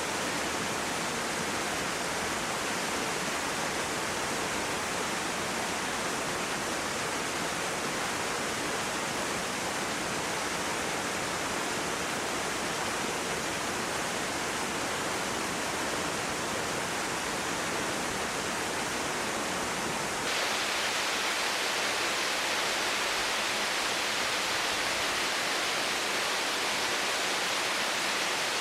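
Mountain stream water rushing steadily. About twenty seconds in, the sound changes abruptly to a brighter hiss with less low rumble.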